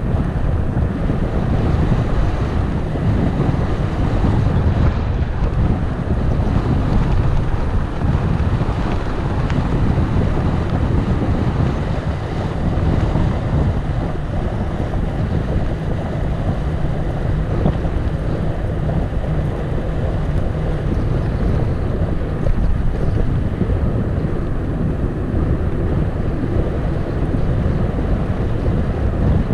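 Wind buffeting the microphone of a camera on a moving bicycle: a loud, steady, low rumble of rushing air.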